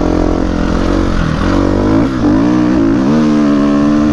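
350cc four-stroke single-cylinder dirt bike engine under throttle. Its note wavers and dips about halfway through, then climbs and holds at high revs near the end.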